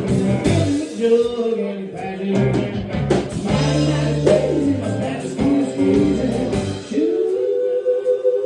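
Live country band playing an up-tempo song: electric guitar, bass and drums with a steady beat and sung vocals. Near the end a long held note that bends down briefly and comes back up.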